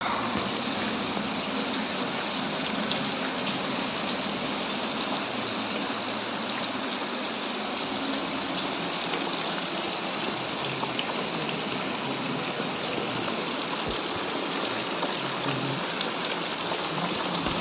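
Steady monsoon rain falling, an even hiss with scattered drop ticks.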